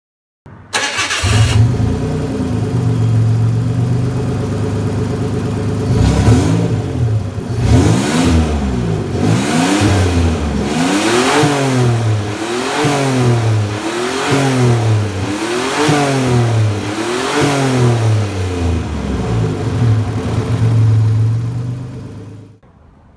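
Nissan Y30 Gloria's VG20 turbo V6 engine idling, then blipped up and back down about eight times, roughly every one and a half seconds, before settling back to idle; the sound cuts out near the end. It revs up cleanly with no odd noises, the sign of a healthy engine.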